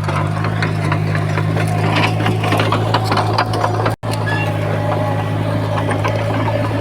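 Komatsu bulldozer's diesel engine running steadily, with many short clanks and rattles over it from the machine at work. The sound drops out for an instant about four seconds in.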